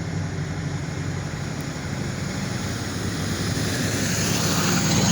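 Diesel locomotive engines of EMD SD40-2 units running as a steady low drone, with a haze of rushing noise, slowly growing louder as the train comes closer.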